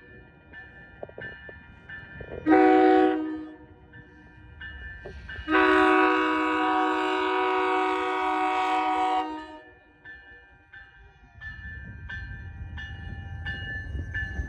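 Locomotive air horn sounding a short blast and then, a few seconds later, a long blast, part of the long-long-short-long grade-crossing signal, while a crossing bell dings repeatedly. Near the end the train's low rumble grows as it draws in.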